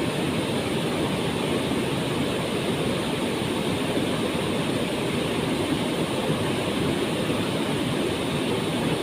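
Waterfall: a steady, unbroken rush of falling water, deep and even.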